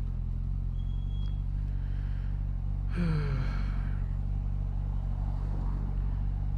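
Motorcycle engine running steadily while riding at an even speed, with a brief falling sound about three seconds in.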